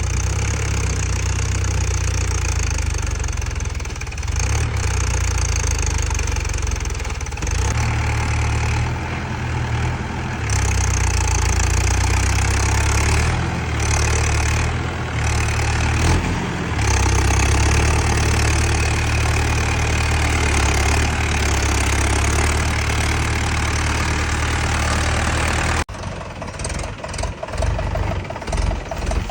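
Tractor engine running steadily, swelling and dipping a few times; after a sudden cut near the end it goes on with a rapid, uneven pulsing.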